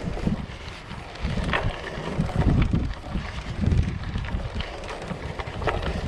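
Wind buffeting the microphone of a rider on a moving bicycle, in uneven low rumbling gusts.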